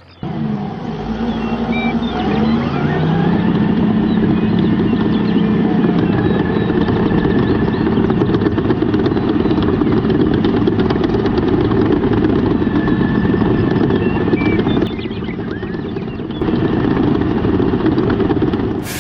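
A small motor running steadily with a heavy rattle, starting abruptly and easing off briefly about fifteen seconds in before picking up again.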